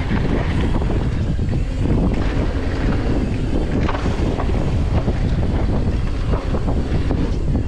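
Wind rushing over a camera microphone on a mountain bike ridden at speed, a steady loud rush with a few short knocks from the bike over the trail.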